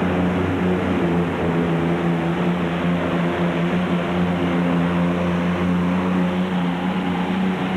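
Modified pulling tractor's V12 Packard engine at full throttle under load, a loud steady drone held at near-constant pitch throughout the pull.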